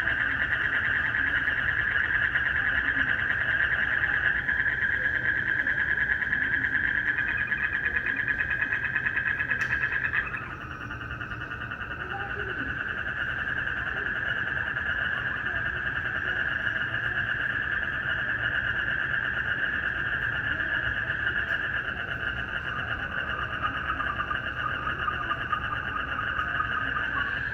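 A dense night chorus of calling frogs and insects, a steady pulsing trill massed in the upper-middle pitches. About ten seconds in, the chorus changes abruptly and drops slightly in level, then carries on.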